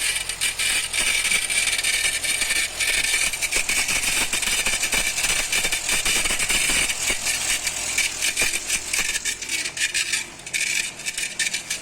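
Renault 11's Cléon four-cylinder engine running with a rapid metallic rattle. The owner hears it each time the revs go up and suspects a slackened timing chain or a spun connecting-rod bearing.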